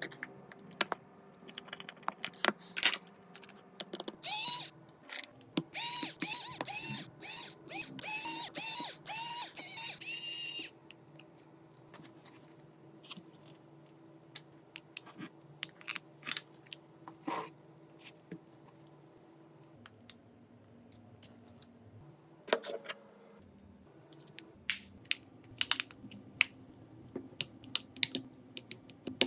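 Small clicks and taps of hand tools working on a smartphone during repair. From about four to ten seconds in there is a dense run of rapid, short, pitched buzzes.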